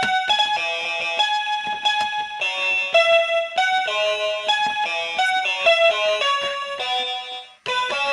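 Electronic keyboard synthesizer playing a simple melody one note at a time in a bright, plucked-sounding voice. The notes break off briefly about seven and a half seconds in, then start again.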